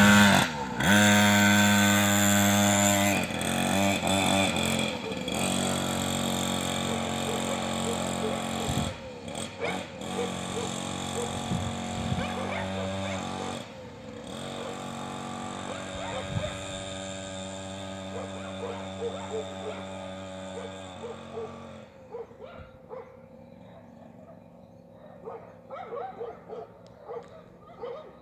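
A 50cc mini motorcycle engine running, its pitch rising and falling with the throttle. It grows quieter about twenty seconds in.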